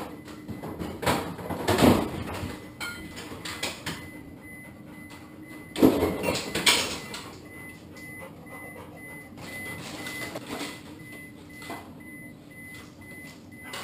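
Refrigerator being opened and rummaged: two bouts of knocking and rustling, and from about four seconds in a faint high beep repeating steadily.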